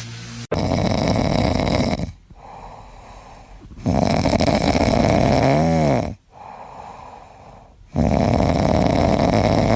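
A sleeping pet snoring: three long, loud snores about four seconds apart, with quieter breaths between. The middle snore carries a brief wavering whistle-like tone.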